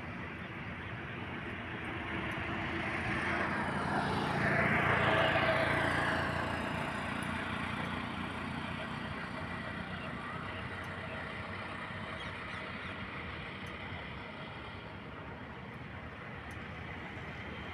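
Steady road traffic, with one vehicle passing close by that grows louder to a peak about five seconds in and then fades.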